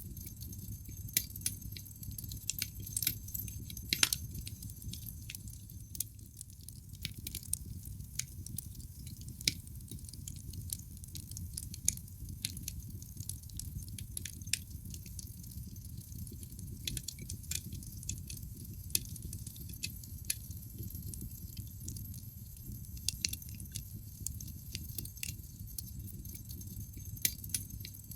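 Wood fire in a fireplace crackling: irregular sharp pops and snaps over a steady low noise of the burning logs, with one louder pop about four seconds in.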